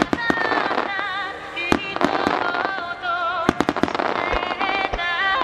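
Aerial firework shells bursting with sharp bangs scattered through, and a couple of deeper booms near the end, over music with a sustained, wavering melody.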